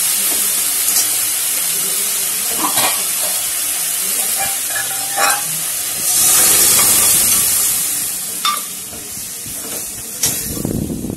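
Chopped jute leaves sizzling as they fry in mustard oil in an aluminium wok, stirred with a spatula that clicks against the pan a few times. About six seconds in, boiled split-pea dal is poured in from the pressure cooker and the sizzle swells to its loudest, then dies down as the dal is stirred in with wet scraping and clinks.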